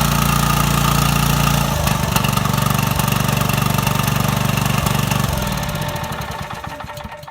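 Small gas engine from an old generator, driving the wood splitter's newly replaced hydraulic pump, running steadily, then shut off about five seconds in and winding down to a stop near the end.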